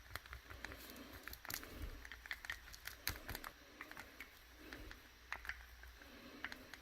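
Light, irregular clicks and taps of small hard objects, several a second, uneven in loudness.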